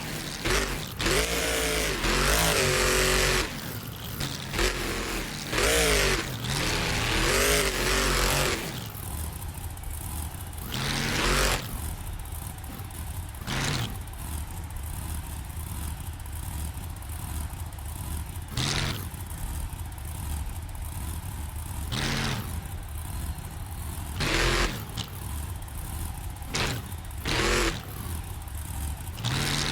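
Monster truck engine revving hard through the first several seconds of a freestyle run. It then drops to a lower steady note, broken every few seconds by short, loud bursts of throttle.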